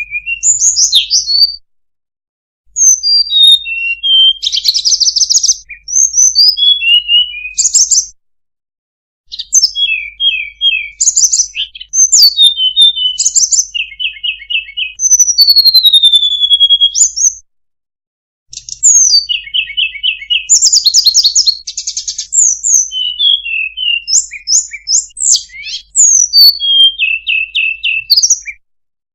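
Recorded song of the sulingan/tledekan, a small songbird, played as a bird-trapping lure: fast high chirps, trills and whistled slurs in bursts of several seconds, broken by short pauses three times.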